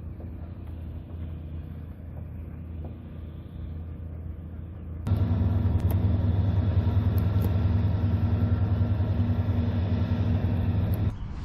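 A steady mechanical hum with a low drone. It jumps abruptly louder about five seconds in and stops suddenly just before the end.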